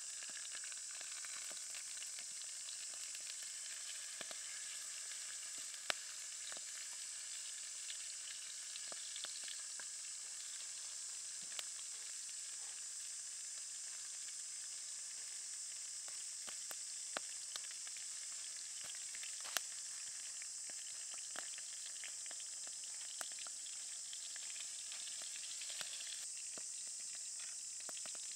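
Salmon pieces frying in hot oil in a metal pan, sizzling steadily, with occasional sharp pops.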